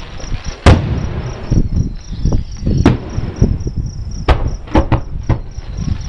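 Aerial fireworks shells bursting with sharp bangs and a low rumble between them: one bang about a second in, another near the middle, then four in quick succession. Crickets chirp steadily underneath.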